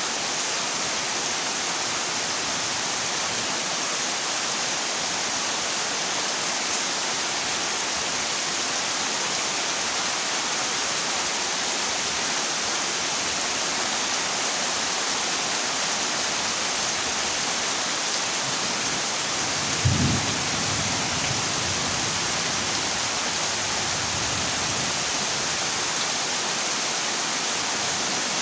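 Heavy rain drumming steadily on a corrugated zinc (tin) roof, with one low thunder clap about two-thirds of the way through that rumbles for a couple of seconds.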